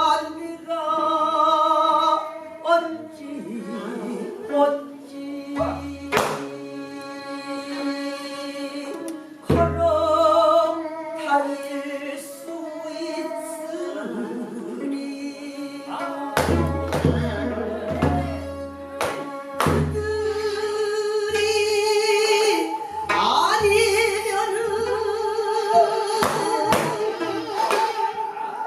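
Pansori singing: a voice holding long notes with a wide vibrato, accompanied by a buk barrel drum struck at irregular intervals, with the strokes thicker in the second half. Korean traditional instruments also accompany the singing.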